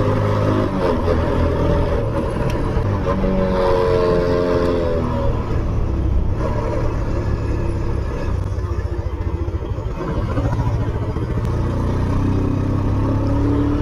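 Motorcycle engine running under way, its pitch rising and falling with the throttle, with a slower, pulsing low-rev stretch a little past the middle.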